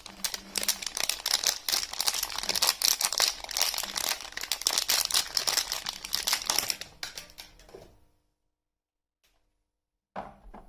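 Soap packaging being crinkled and torn open by hand: a dense run of crackling that fades out about eight seconds in, then after a pause a brief crinkle starts again near the end.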